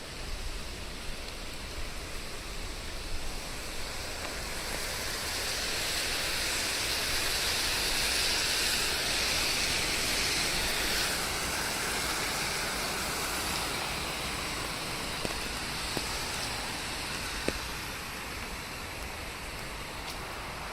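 Rain falling in a steady hiss that grows heavier and louder for several seconds in the middle, then eases back, with a few faint drip taps.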